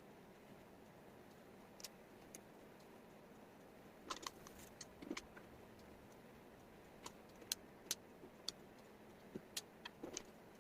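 Small wooden jigsaw puzzle pieces being handled and set down, giving irregular light clicks and taps over faint hiss, with a quick run of clicks about four seconds in.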